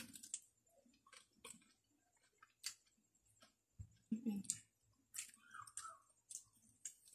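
Faint wet mouth clicks and lip smacks of chewing slippery boiled saluyot (jute mallow) leaves, scattered irregularly with a few soft low thumps.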